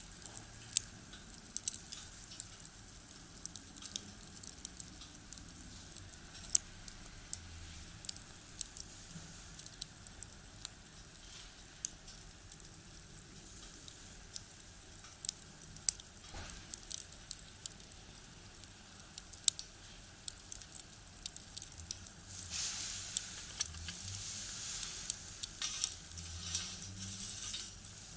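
Firewood crackling in a small box stove, with irregular sharp pops and snaps. A soft hiss swells up about three quarters of the way through.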